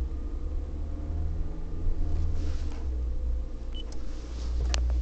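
Steady cabin hum of a 2008 Toyota Prius with the air conditioning running: a low, even drone with faint steady tones above it. A couple of short clicks near the end.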